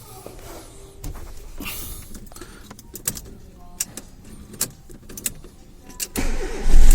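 A few scattered clicks and knocks. Then, near the end, the freshly rebuilt Fiat Palio Fire four-cylinder engine cranks on the starter and catches, running loudly: its first start after the rebuild.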